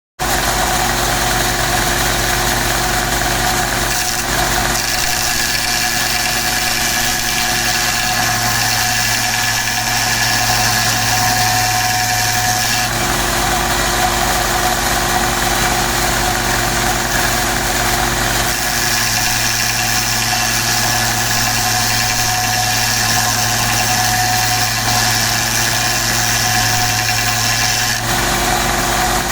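Electric belt sander running steadily, rounding off the end of a hardwood stick; its steady hum and sanding noise shift slightly a few times.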